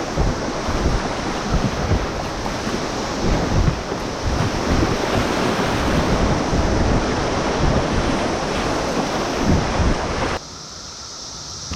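River water rushing and splashing through a rapid, with wind buffeting the microphone in low gusts. About ten seconds in it cuts off sharply to a quieter scene with a steady high buzz, a chorus of Brood X periodical cicadas.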